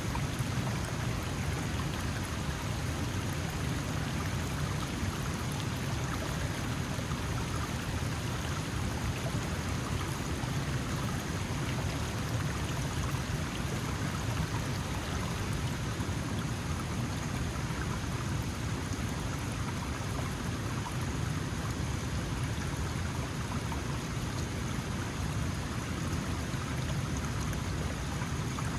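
Small mountain stream flowing steadily, its water a continuous rushing and babbling.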